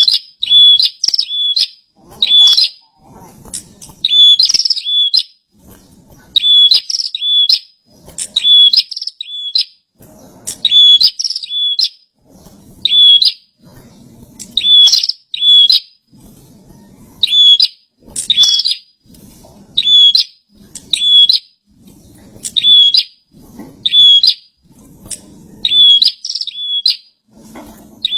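A prenjak (prinia) singing loudly, repeating a short, sharp chirping phrase about every one to two seconds.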